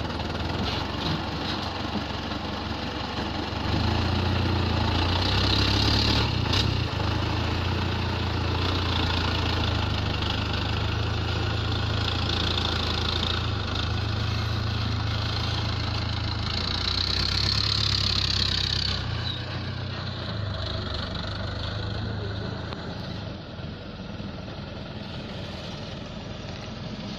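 Dump truck's diesel engine running steadily, its note rising about four seconds in and holding, then easing down and quieter in the last few seconds.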